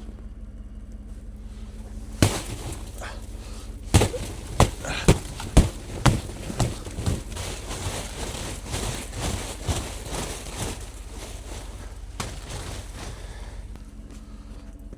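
A series of sharp knocks: one, then a run of strong ones about two a second that grow weaker and trail off. Under them is a steady low hum.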